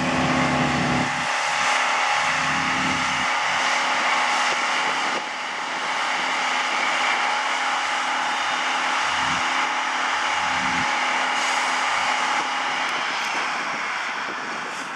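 Water truck's engine and pump running hard to drive the water cannon: a loud, steady rushing noise with a high, even whine on top. The deeper engine note drops away about a second in.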